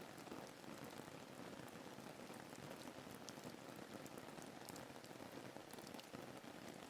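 Faint, steady rain ambience: an even hiss with many small drop ticks scattered through it.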